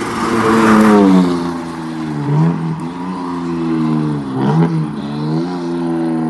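Turbocharged BMW M50B25 straight-six in an E36 drift car running hard under changing throttle. A loud rushing noise fills the first second, then the revs fall, and twice they dip sharply and climb again.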